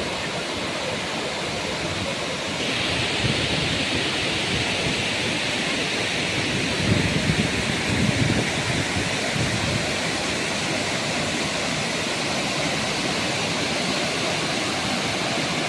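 Waterfall: a steady rush of falling water that gets louder and brighter about three seconds in. A few low rumbles come and go around the middle.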